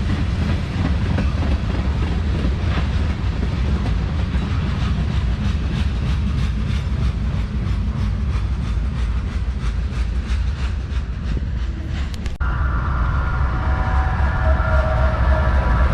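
Freight train cars rolling past: a heavy low rumble with the rhythmic clickety-clack of wheels over rail joints. About twelve seconds in the sound cuts off abruptly to a steadier train rumble with several high, steady ringing tones over it.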